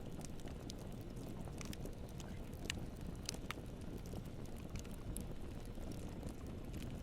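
Campfire burning, with irregular sharp pops and crackles scattered over a steady low rumble.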